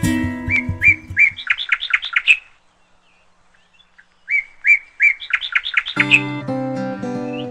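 A bird sings the same phrase twice, a run of short chirps that speed up and climb in pitch, with a quiet gap between the two. Acoustic guitar background music fades out as the first phrase begins and comes back about six seconds in.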